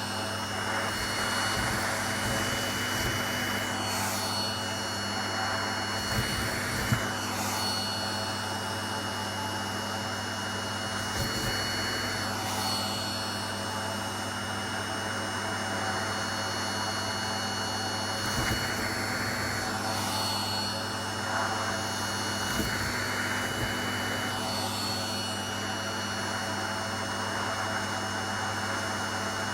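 Vacuum cleaner running continuously: a steady rush of air with a high motor whine and a low hum. The upper part of the rush dips briefly every few seconds, as the airflow through the nozzle changes.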